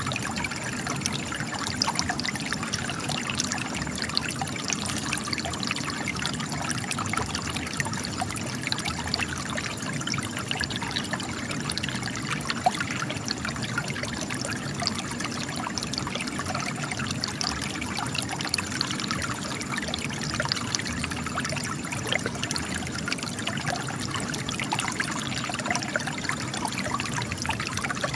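Spring water gushing and trickling out of cracks in rock, a steady dense splashing and babbling with many small droplet splashes and no change in flow.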